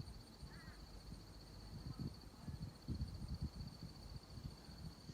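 Insects trilling steadily in a fast, even pulse, over irregular low rumbles and bumps of wind or handling on the microphone.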